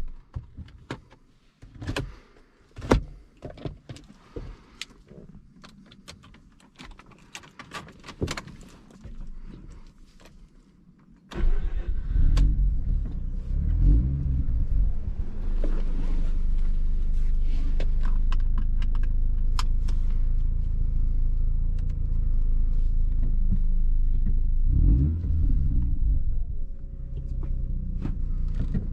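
Scattered clicks and knocks, then about eleven seconds in the Mazda RX-8's two-rotor Renesis rotary engine starts and runs loud and low through the RE Amemiya exhaust, with a few short revs.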